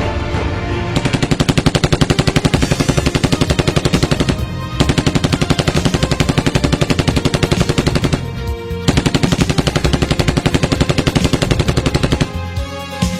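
Automatic gunfire in three long, rapid bursts, starting about a second in, with short breaks about four and eight seconds in, and stopping near the end. Music plays underneath.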